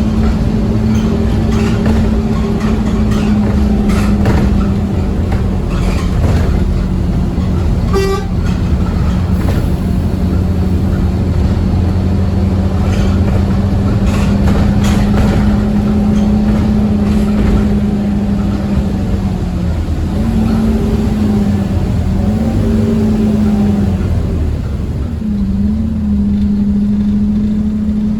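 Scania OmniCity bus at speed, heard from inside: a steady engine and driveline drone with a strong low hum over road rumble. Near the end the pitch dips and rises several times as the speed changes.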